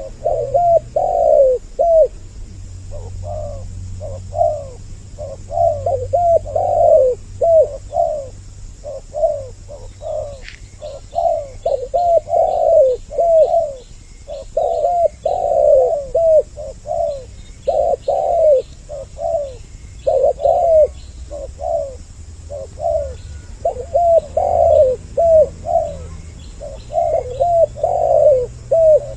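Spotted doves (tekukur) cooing in repeated phrases that follow one another closely, two birds calling over each other, as on a dove lure recording. Faint high chirps are heard behind the cooing.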